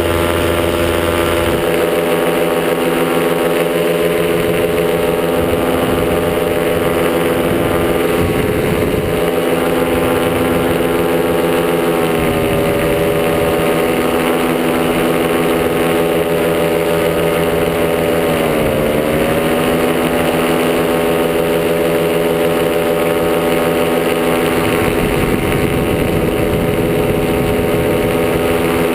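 Top80 two-stroke paramotor engine running steadily under power in flight, its pitch dipping briefly about twelve seconds in and more deeply around nineteen seconds in as the throttle is eased and reopened. Wind rumble on the microphone comes and goes underneath.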